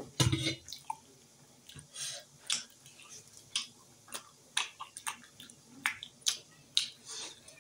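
Close mouth sounds of eating steamed momo dumplings: chewing with irregular wet lip smacks and clicks, about one or two a second, the loudest right at the start.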